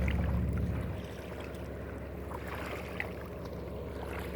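Steady low drone of a boat engine running out on the river, dropping in level about a second in and then holding steady, with a small tick about three seconds in.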